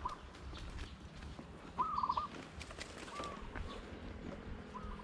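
A bird calling: a few short, quick trilling calls, the loudest about two seconds in.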